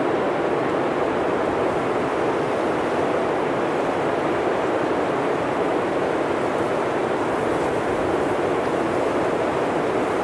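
Blizzard wind blowing hard through a forest: a steady, dense rushing noise without distinct gusts or breaks.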